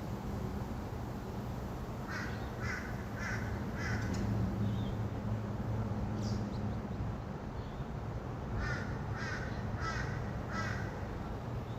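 A bird calls in two runs of four evenly spaced calls, about two seconds in and again near the end, with a single call in between. A steady low hum of distant traffic runs underneath.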